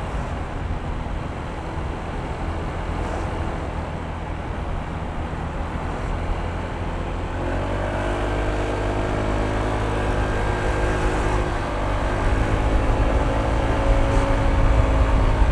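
Honda ADV160 scooter's single-cylinder engine running under way, with wind and road noise. About halfway through a clear engine note comes in, and it grows louder toward the end as the scooter speeds up.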